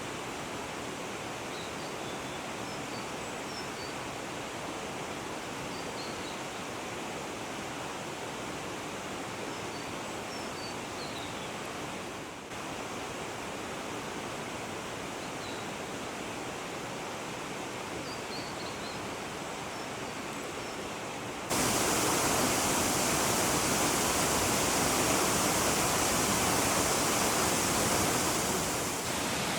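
Steady rush of a waterfall and mountain stream, with faint, short, high bird chirps scattered over it. About two-thirds of the way in the water suddenly becomes much louder.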